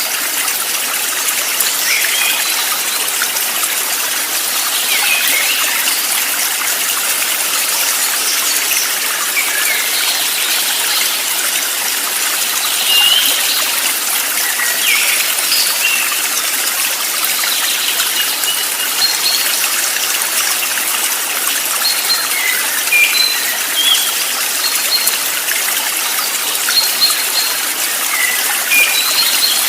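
Steady rushing water of a stream, with short bird chirps and whistles scattered over it.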